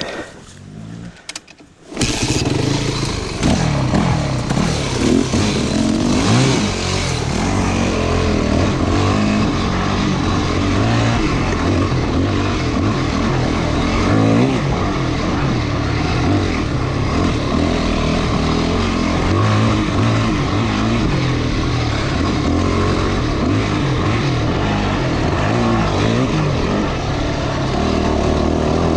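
Off-road motorcycle engine running under way on a dirt trail, its pitch rising and falling with the throttle. It comes in suddenly about two seconds in, after a few light clicks.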